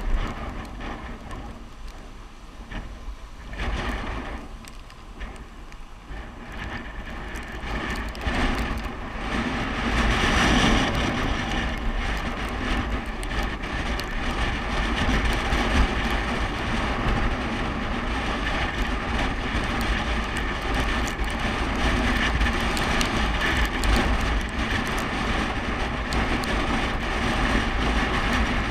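Wind rushing over the microphone of a camera on a downhill bicycle ride, with a low rumble. It gets louder about nine seconds in and then stays loud.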